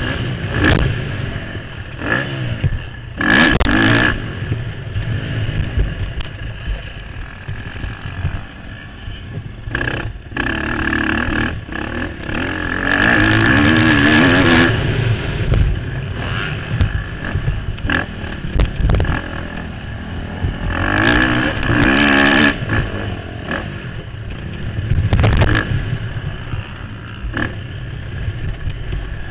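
KTM motocross bike's engine revving hard as it races over a dirt track, its pitch repeatedly climbing and dropping with the throttle and gear changes, heard from the rider's helmet camera, with occasional sharp thumps.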